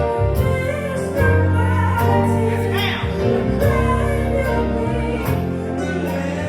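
Gospel choir singing with a live band: bass guitar and keyboard holding sustained notes under the voices, with drum hits keeping a steady beat.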